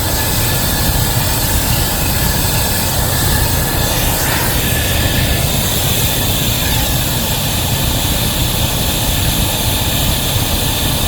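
Wabash #713 locomotive working hard with a heavy train, a loud, steady running roar.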